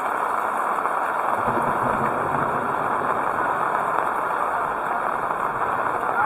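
Heavy rain falling in a steady, loud hiss, with a low rumble joining it about a second and a half in.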